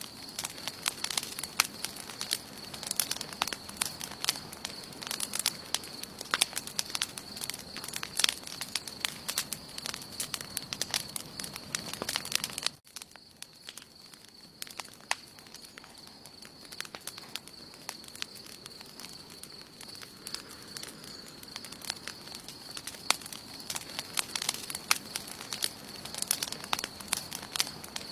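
Wood campfire crackling, with many sharp pops. About halfway through the sound drops off suddenly, and the crackling comes back quieter and sparser before building up again. A steady high-pitched tone runs underneath.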